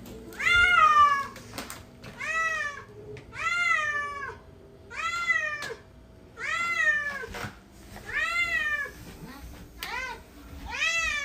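A cat meowing over and over, about seven separate meows spaced roughly a second and a half apart, each rising and then falling in pitch.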